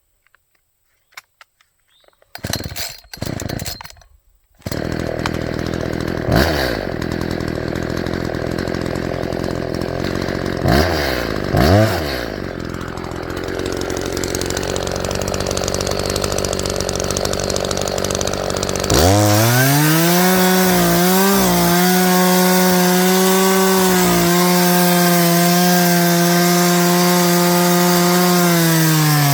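Echo two-stroke chainsaw being pull-started: a few short cord pulls, then the engine catches about five seconds in and runs with several brief revs. About two-thirds through it goes up to a steady high-speed run at full throttle.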